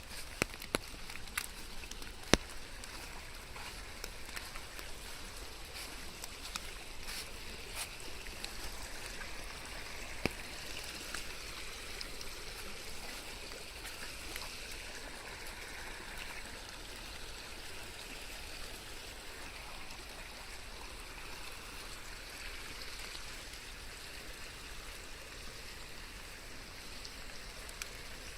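Steady rain with water trickling and running. A few sharp drip clicks come in the first couple of seconds, and one more about ten seconds in.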